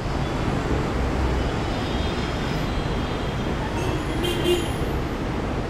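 Steady rumble of a passenger train's coach wheels on the rails as the train runs away down the track. About four seconds in comes a brief higher-pitched sound.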